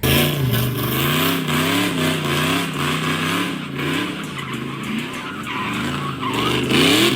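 Pontiac G8 GT's 6-litre V8 running hard while the tyres squeal and skid. The engine pitch wavers up and down and rises near the end.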